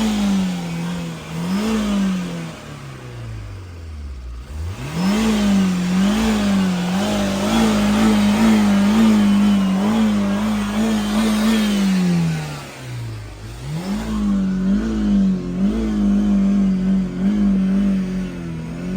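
Car engine revved hard, held at high revs with quick repeated throttle blips. The revs fall away twice, about four seconds in and again around thirteen seconds, before climbing back up.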